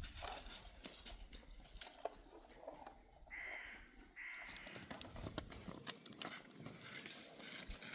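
A bird cawing twice, each harsh call about half a second long, over scattered light taps and clicks.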